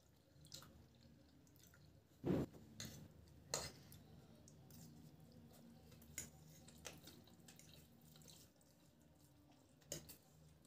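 Quiet close-up eating sounds from people eating noodles off forks: short wet mouth clicks and slurps. There are a few scattered sharp sounds, and the loudest comes about two seconds in.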